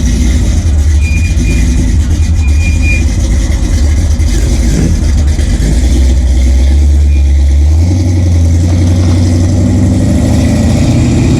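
A car engine running steadily, its low note stepping up a little about eight seconds in.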